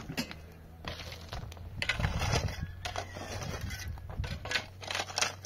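Irregular clatter of hard objects knocking and scraping against each other, a dozen or so knocks at uneven intervals, over a steady low hum.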